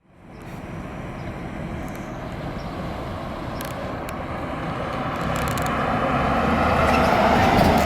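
Fire engine approaching along the road, its engine and tyre noise growing steadily louder to a peak near the end.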